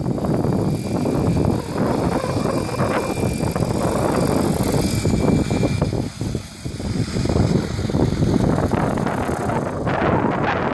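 Electric 600-size RC helicopter (Mikado Logo 600, Scorpion motor) flying, its motor and rotor whine over heavy wind buffeting on the microphone. The thin high whine fades out about halfway through, and the high hiss drops away near the end.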